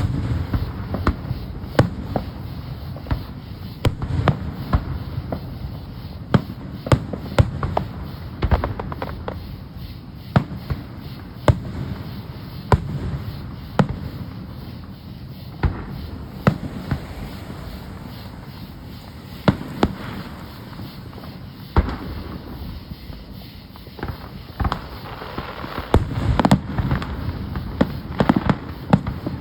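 Fireworks going off: many sharp bangs and crackles at irregular intervals, with quieter stretches in the middle and a dense run of reports near the end.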